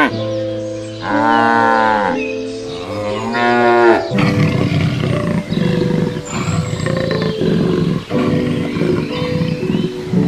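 Cattle mooing: a low call at the start, then two long moos that rise and fall in pitch, followed by a noisier jumble of sound in the second half.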